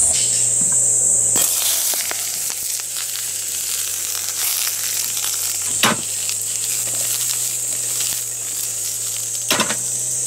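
Sliced onions sizzling in a black wok over a portable cassette gas stove, the frying hiss starting about a second and a half in. Two sharp clicks come about six and nine and a half seconds in. Insects trill steadily in the background.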